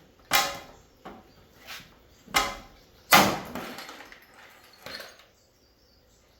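A run of about six sharp knocks and clanks from hand work on an air conditioner's metal parts, the loudest about three seconds in, with a fading ring after it.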